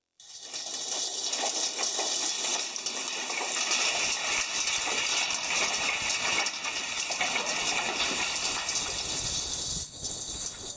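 Steady rushing noise with no distinct strikes or voices, easing off shortly before the end.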